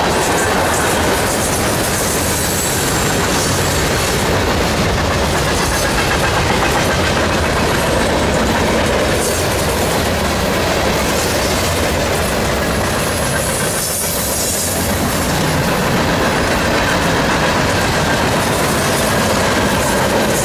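Freight cars of a CSX train rolling past: a steady, loud rumble and clatter of steel wheels over the rails.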